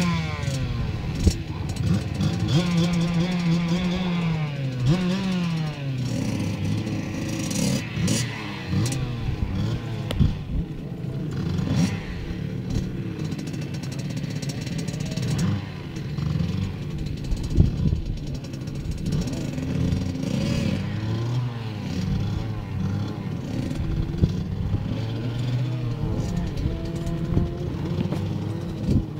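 Motocross bike engines revving, their pitch climbing and dropping again and again, with more than one engine at times.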